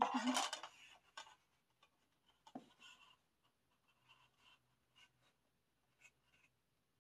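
Hands handling the album's paper and cardboard packaging and its CD: a loud rustling scrape in the first second, then faint scattered rustles and clicks.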